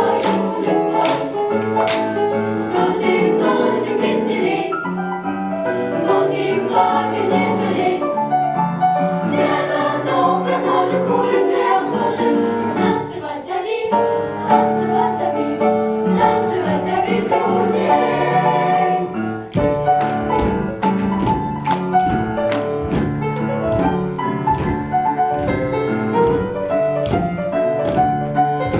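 A choir singing a boogie-woogie song with piano accompaniment. About two-thirds of the way through the singing stops and the piano carries on with a steady, sharply beating rhythm.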